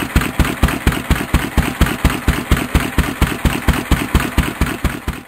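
1920 International Harvester M Type 3 hp single-cylinder stationary engine running, with an even beat of about five exhaust pulses a second.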